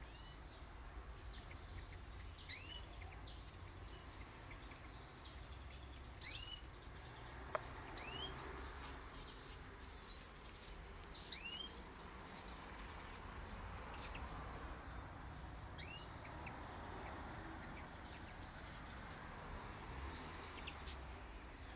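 Small aviary birds giving short, rising call chirps, single or in quick pairs every few seconds, faint over a low background hum. One sharp click sounds about seven seconds in.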